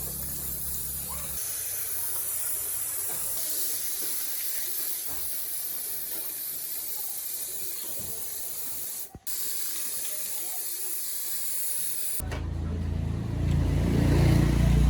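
Steady spraying hiss, cut off briefly a little past nine seconds. About twelve seconds in, a loud low rumble comes in over it.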